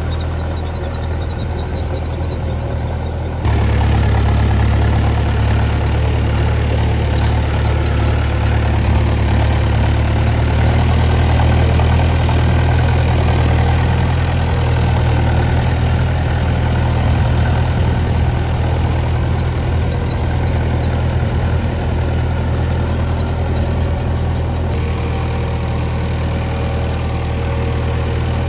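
Mahindra Arjun Novo 605 DI tractor's four-cylinder diesel engine running steadily while it drives a rotavator. The sound gets suddenly louder about three and a half seconds in, then holds steady.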